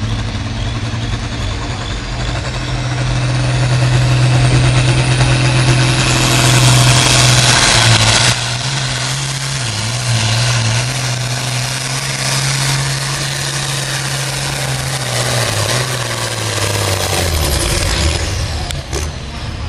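Turbocharged diesel farm stock pulling tractor working hard under load, its engine running loud and steady with a high whine that climbs over the first several seconds. Near the end the engine drops in pitch and the whine falls away as it throttles down.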